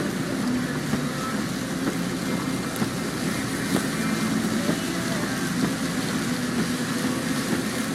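Heavy rain on a moving car: a dense, steady hiss of rain with many small drop ticks, over the car's steady running and road noise.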